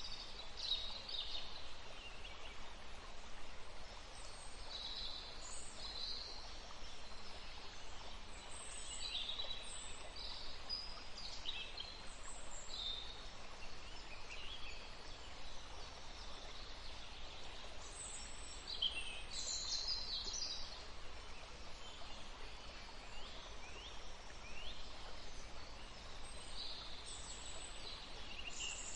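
Several songbirds singing and chirping in short phrases over the steady rush of a forest stream.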